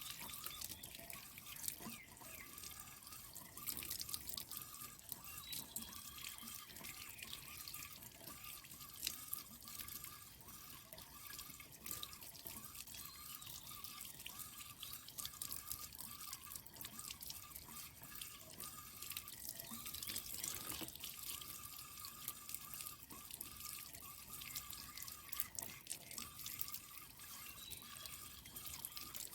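Water dripping and spattering, with many small irregular splashes, as a water-tank filter is rinsed out by hand.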